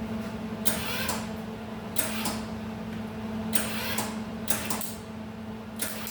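Arc welder laying short tacks to weld nuts onto broken exhaust-manifold studs, five brief crackling bursts about a second apart, over a steady low hum.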